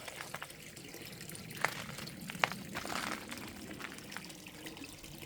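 Spring water running in a steady trickle, with a few sharp clicks, the loudest two about a second and a half and two and a half seconds in.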